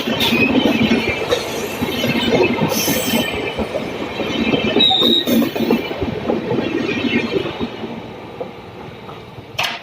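Kashi Mahakal Express passenger train rushing past at high speed, its wheels rattling and clattering on the rails with some squeal. The sound fades away over the last few seconds as the end of the train passes and recedes.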